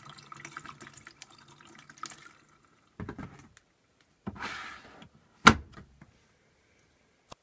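Water running into a Beko washing machine through its inlet valve, which shuts off about two seconds in. Then two short swishes, a sharp knock about five and a half seconds in, and a faint click near the end.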